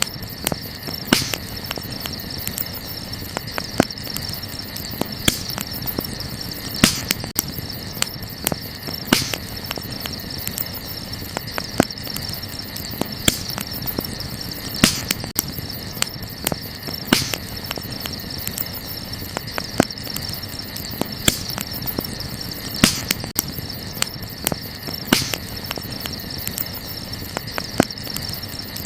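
Wood campfire crackling, with frequent small snaps and a louder pop every second or two, over a steady high chirring of night insects.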